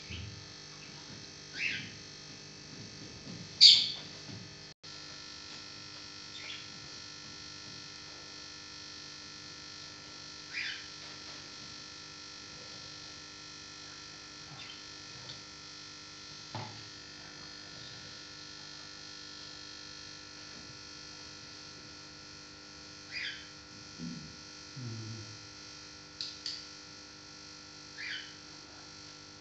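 A small bird chirps, short high calls spaced a few seconds apart, the loudest about four seconds in, over a steady electrical hum.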